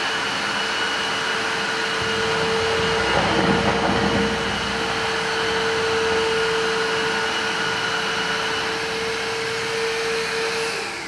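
Jimmy HW8 cordless wet-and-dry stick vacuum-mop running steadily with a motor whine, sucking up milk and cereal from a tiled floor, with a louder, rougher rush about three seconds in. Near the end it is switched off and the whine falls away.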